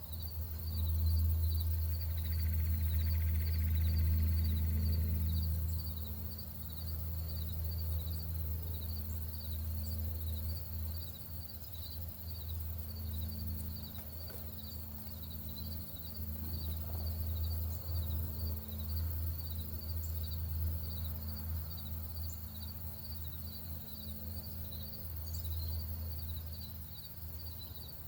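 Insects chirping in a steady high-pitched pulse, about three chirps a second, over a louder low steady rumble that swells and eases. A few faint, short high ticks are scattered through.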